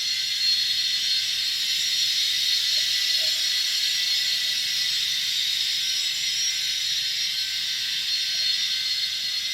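Air compressor at work, a steady hiss of compressed air while it is used to air up a low, slowly leaking tire.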